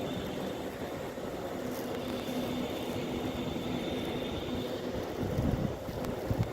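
Blizzard wind blowing, over a faint steady hum. Gusts start buffeting the microphone about five seconds in.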